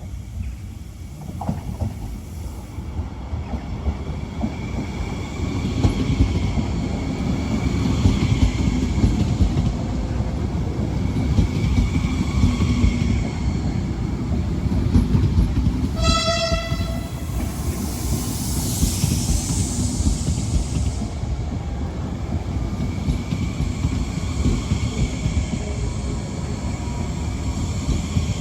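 A train running past with a steady rumble of wheels on rails that builds over the first few seconds. A single short horn blast, about a second long, sounds about halfway through.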